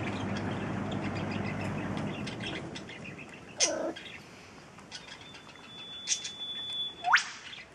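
Outdoor ambience with birds calling: a low rumbling hiss fades out over the first few seconds, then come scattered high chirps, one held high whistle, and a quick sharply rising whistle near the end.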